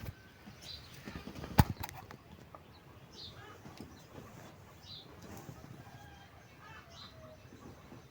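A single sharp knock about a second and a half in, over faint scattered bird chirps.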